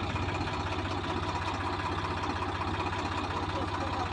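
Tractor diesel engine idling steadily, with an even low pulsing beat.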